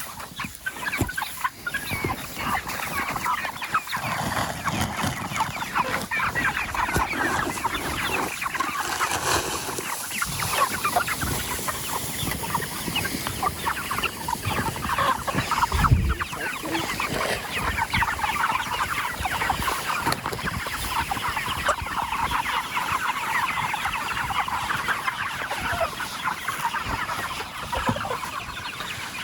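A flock of chickens clucking, many birds calling over one another without a break, with a single low thump about halfway through.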